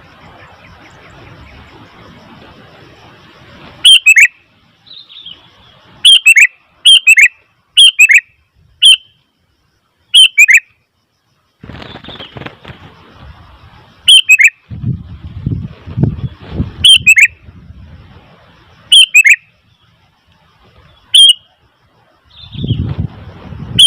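Sooty-headed bulbul (kutilang) calling loudly: short, sharp, falling two-part notes repeated about every one to two seconds, starting about four seconds in, with a pause of a few seconds in the middle. A low rumbling noise comes and goes underneath.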